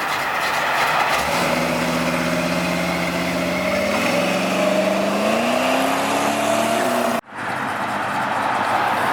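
A car's engine running and accelerating, its note climbing steadily in pitch. About seven seconds in, the sound cuts out suddenly for a moment, then comes back.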